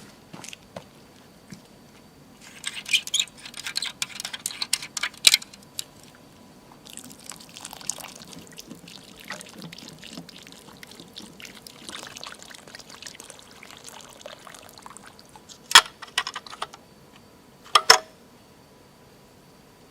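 Water being poured and splashing: a splashy spell, then a steady run of pouring, then two sharp knocks near the end.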